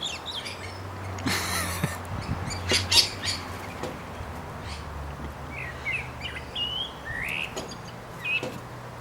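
Small bird chirping in short calls while attacking its reflection in a mirror panel, with a few sharp taps about three seconds in, the loudest being the bird striking the glass. A steady low hum runs underneath.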